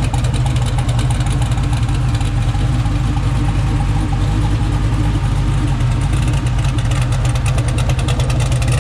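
Cammed LS V8 of a twin-turbo Ford dentside pickup idling.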